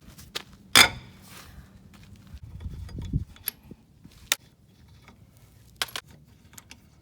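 Scattered metallic clinks and knocks of tools and wheel hardware during rear-wheel removal on a jacked-up car, the sharpest about a second in, with a low scraping rumble a little before the middle.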